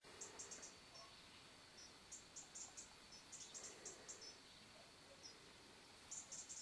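Faint, very high-pitched chirps in quick runs of three or four, repeating every second or so over a quiet outdoor hiss.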